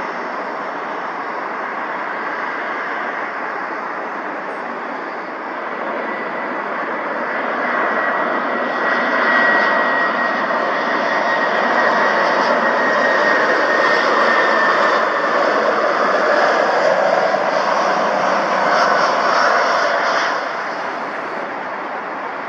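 Jet airliner's engines, a steady rushing roar with a high whine, swelling through the middle and then dropping off sharply near the end.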